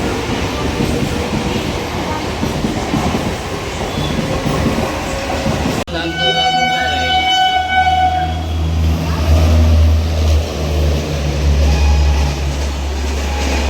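A train passing at speed with dense, steady running noise, which breaks off abruptly about six seconds in. A train horn then sounds for about two seconds, followed by a deep, steady low rumble of a train to the end.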